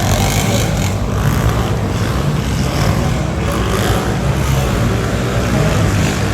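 Monster truck engine running loud, its pitch shifting up and down a little as the throttle changes.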